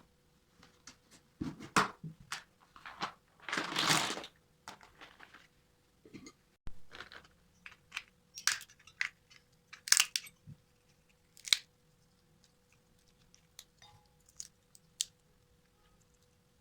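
Food packaging and containers being handled: scattered light clicks and knocks, with a longer tearing rustle of packaging about three and a half seconds in.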